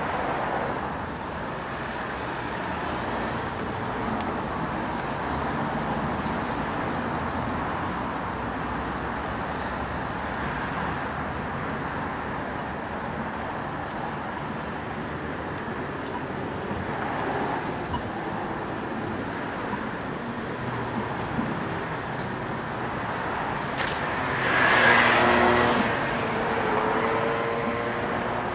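Steady road traffic. Near the end a louder vehicle passes close, its engine note standing out above the hum.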